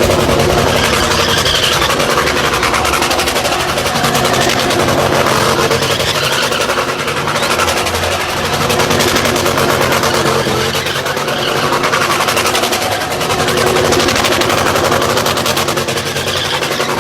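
Car engine running hard, loud and continuous, swelling and easing every few seconds as the car is driven, with tyre and road noise mixed in.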